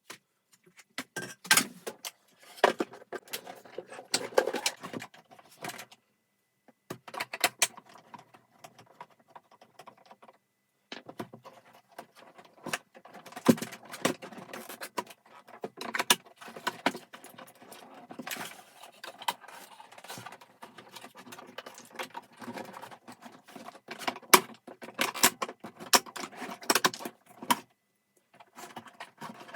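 Irregular clicks, clinks and rattles of vacuum-cleaner parts being handled and taken apart by hand, broken by a few short silences.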